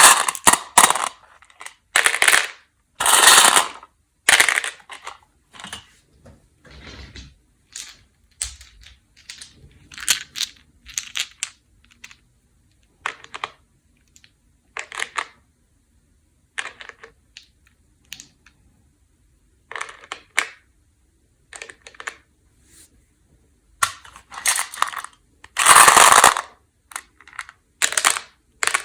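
Peanut M&M's candies and their packaging being handled: an irregular run of sharp crackles and clatters, some brief and some lasting about half a second, with short pauses between. The loudest bursts come near the start and about two-thirds of the way through.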